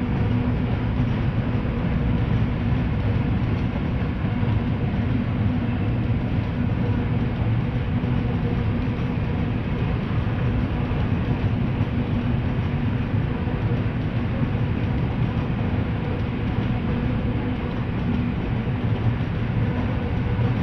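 Diesel locomotive hauling a freight train, a steady engine drone with a few held tones under it.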